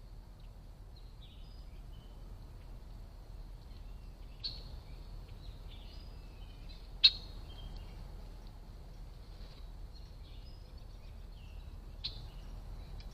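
Small songbirds chirping sporadically with short high notes over a steady low background rumble. Three sharp clicks cut through, the loudest about halfway in.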